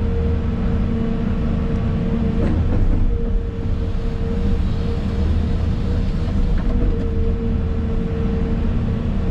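Excavator's diesel engine and hydraulics running steadily under work, heard from inside the cab: a constant drone with a steady whine over it. There are a couple of faint knocks, about two and a half seconds in and again near the middle.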